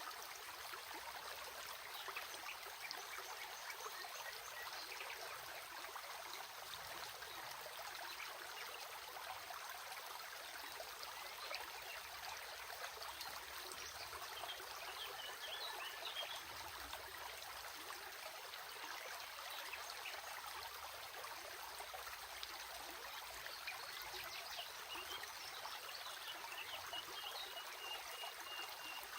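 Small stream of water trickling and babbling steadily, with a few faint high chirps now and then.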